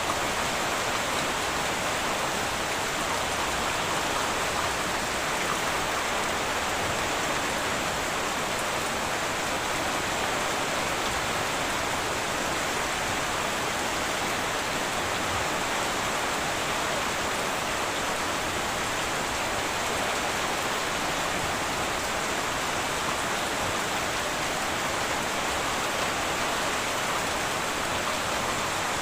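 Heavy rain falling steadily on a tin roof: an even, unbroken hiss.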